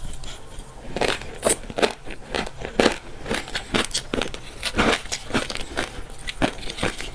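Fish roe being chewed, the eggs popping and crackling between the teeth in quick, irregular clicks, several a second.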